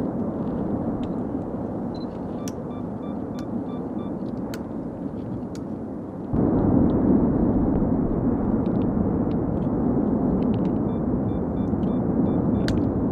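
Cumbre Vieja volcano erupting: a steady low rumbling roar with scattered sharp cracks, stepping up louder about six seconds in.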